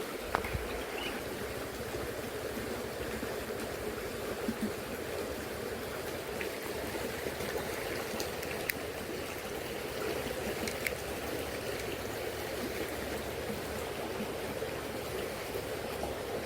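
Shallow, fairly fast-flowing river running over its bed: a steady rushing of water, with a few faint clicks.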